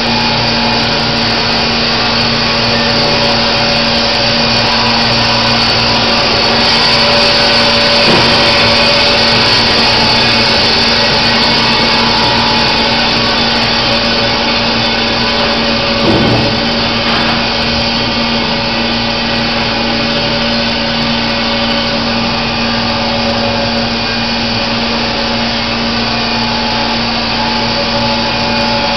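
Baker Products Super Streak band sawmill running, a steady loud machine hum with a hissing wash over it. There is a brief thump about sixteen seconds in.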